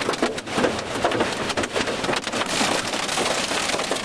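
Heavy rain and storm wind, with dense, irregular crackling impacts throughout.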